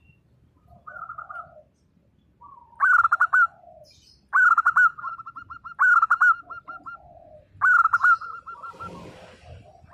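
Zebra dove (perkutut) cooing in loud phrases about a second and a half apart, each a quick stuttering start followed by a run of short repeated notes, with softer, lower coos in between. A brief rustle comes near the end.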